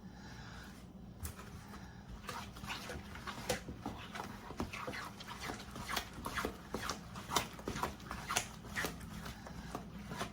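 A spoon stirring thick praline candy mixture with pecans in a bowl, knocking and scraping against the side in quick, irregular clicks, with a low steady hum underneath.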